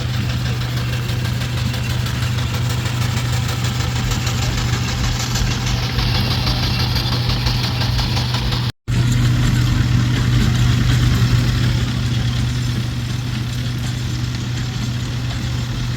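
An engine running steadily with a strong low hum and a fast even beat. The sound cuts out for a moment about nine seconds in.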